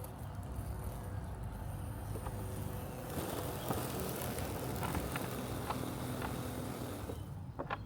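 Robotic lawn mower running with a steady low hum. About three seconds in, a brighter hiss joins, with scattered light clicks.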